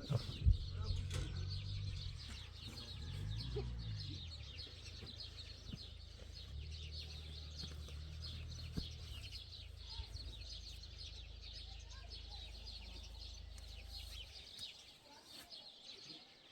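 Many small birds chirping continuously over a low, steady rumble that wavers in pitch early on and cuts off near the end.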